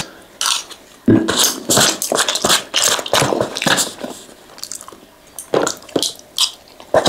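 Close-miked chewing of a mouthful of fried flat rice noodles (kwetiau goreng), in irregular bursts, easing off briefly around the middle before the next spoonful.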